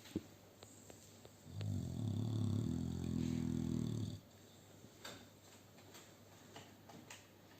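A sleeping bull-breed dog snoring: one long, low snore lasting about two and a half seconds, starting about a second and a half in.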